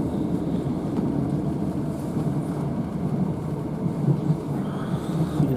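Steady running rumble inside the carriage of a Northern Class 156 Sprinter diesel multiple unit under way, wheels and engine noise heard from the passenger saloon.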